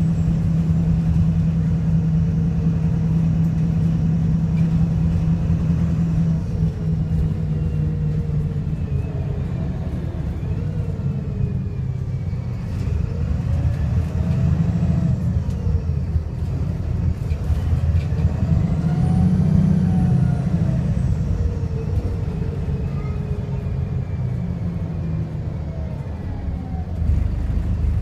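VDL SB200 bus's diesel engine running under way through its Voith automatic gearbox, with a whine that rises and falls around the middle and again about two-thirds through. The engine is misfiring and sounds very unhealthy.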